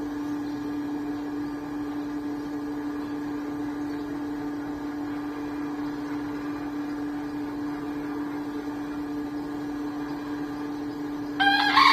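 A steady mechanical hum at one constant pitch. Near the end a white bekisar, a green junglefowl–chicken hybrid, begins a loud crow.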